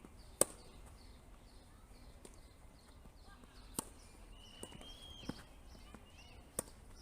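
Tennis balls struck by rackets in a rally on a grass court: three sharp hits a few seconds apart, with fainter knocks between them. Faint repeated high chirps run underneath.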